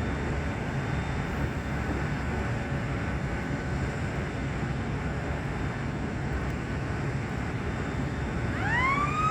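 Steady rumble of unloading-station machinery, then near the end a siren starts and winds up in pitch: the signal that the tipper is about to tip the rest of the cane trailer.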